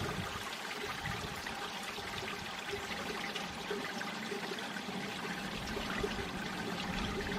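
Mountain stream water flowing and trickling over rocks, a steady babbling rush.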